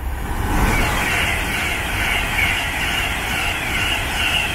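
Class 390 Pendolino electric train passing through at close to 125 mph: a loud, steady rush of wheel and air noise with a low rumble underneath and a high hissing band on top.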